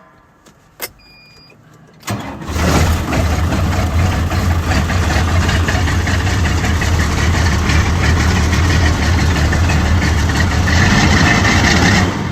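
A click and a short beep, then a tractor engine cranks briefly and catches on a cold start about two seconds in, settling into a steady, loud idle.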